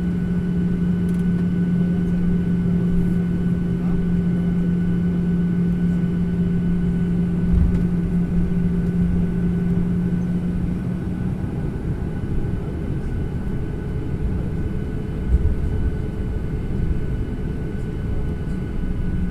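Airliner cabin noise: a steady drone of engine and air noise heard from inside the cabin, with a constant low hum that fades a little past halfway and returns near the end. Two brief low thumps come about a third of the way in and again later.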